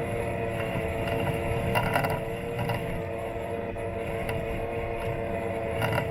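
Robot lawn mower's electric motors running with a steady whine, heard from a camera taped onto the mower's body, with short rattles about two seconds in and again near the end.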